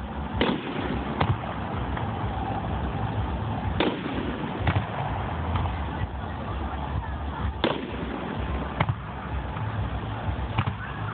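Aerial fireworks going off in a string of sharp bangs at irregular intervals, over a steady background of crowd voices.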